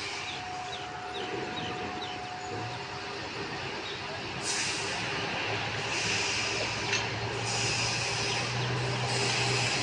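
Indian Railways train running on the track, its noise growing louder about halfway through, with a steady low hum in the second half.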